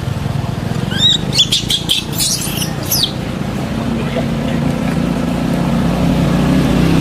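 A steady low engine hum, slowly getting louder. Between about one and three seconds in, a quick run of short, high chirping calls sounds over it.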